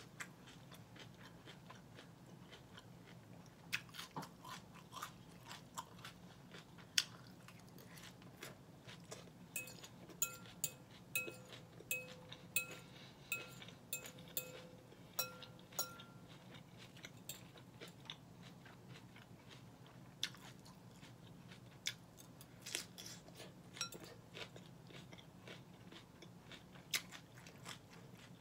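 Crunchy chewing of Caesar salad lettuce, with sharp clicks of a metal fork against a glass bowl. Through the middle stretch the fork stirs and taps in the bowl in quick succession, and the glass rings faintly.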